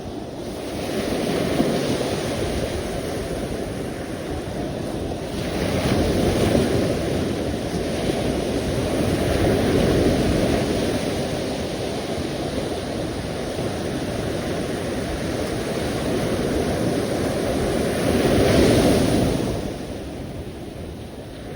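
Sea waves washing in on the shore, the surf rising and falling in several surges, the strongest near the end.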